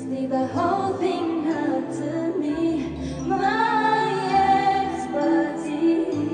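Live pop concert music: female voices singing a slow melody with long held, gliding notes over a steady instrumental backing with bass.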